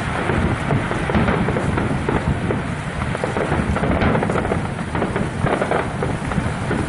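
Fireworks going off in a dense, continuous barrage: overlapping booms and crackling with no pause between them.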